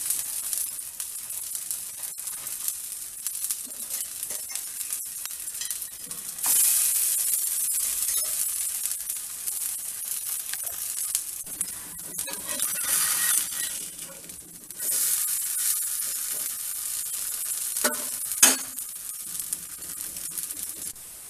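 Cabbage and potato roti patties sizzling on a hot dosa tawa, a steady hiss that jumps louder twice, about six seconds in and again about fifteen seconds in, with a few soft taps.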